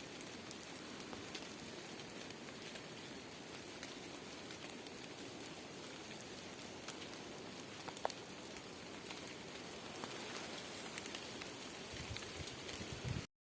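Steady rain falling, with scattered drops ticking; it cuts off suddenly near the end.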